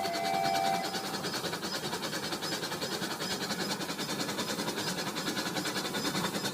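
Rail King toy train running on its plastic track: a steady, fast rattle of the small motor and wheels. A short, steady electronic tone from the toy stops under a second in.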